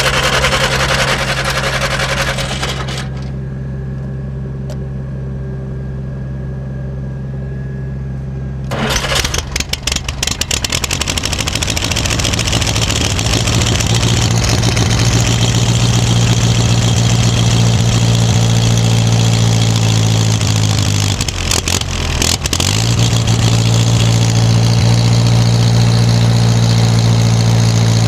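Snowblower engine cold-starting: a few seconds of cranking, a pause with another engine idling underneath, then about a third of the way in it catches, sputters unevenly and builds into steady running. About three-quarters of the way through it stumbles briefly, dropping in pitch, then picks back up and runs on.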